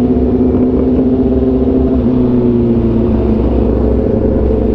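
Sportbike engine running steadily while riding, its note dipping slightly in pitch about two seconds in.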